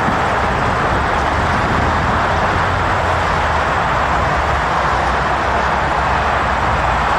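Jet airliner engine noise: a steady, loud rushing rumble with no change in level.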